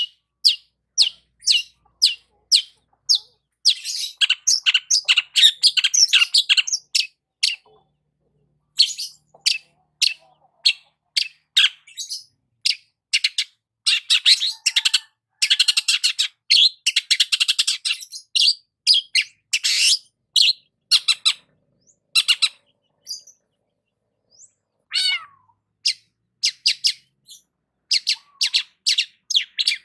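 Long-tailed shrike (cendet) singing: sharp high notes repeated about twice a second, broken by long runs of rapid chattering, about four seconds in and again from about fourteen to eighteen seconds.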